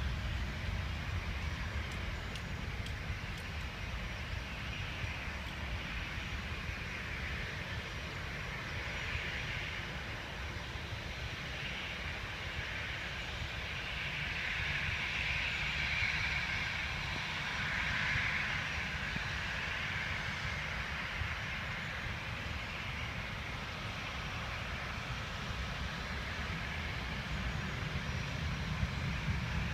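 Jet airliner's engines at takeoff thrust: a steady rushing noise over a low rumble, growing louder about halfway through and easing off again.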